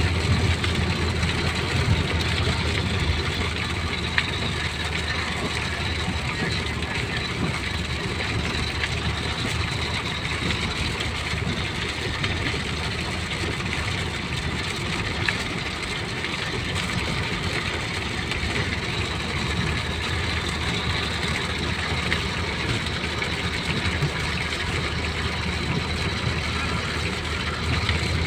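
Steady engine and road noise of a car driving, an even rushing sound over a low hum.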